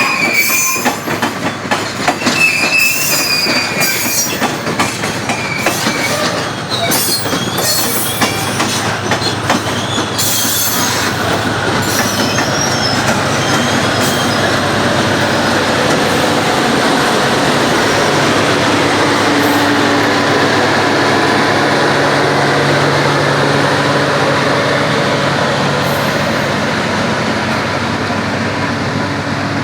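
Freight train wagons rolling past, wheels squealing and clattering over the rail joints for the first ten seconds or so, then settling into a steadier rolling rumble with a low hum.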